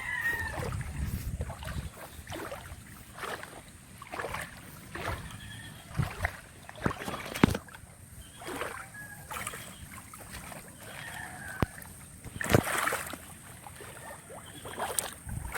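Footsteps wading through shallow pond water and mud, with irregular splashes and sloshes.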